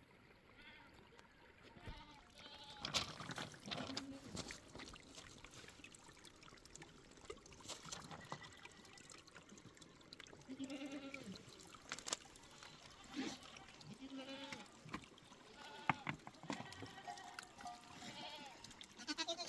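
Goats and sheep bleating in short calls now and then, with a few sharp clicks or knocks in between.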